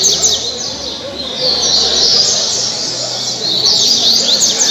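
A double-collared seedeater (coleiro) sings its 'caribe' song type: bursts of fast, high, sweeping chirps, repeated three times.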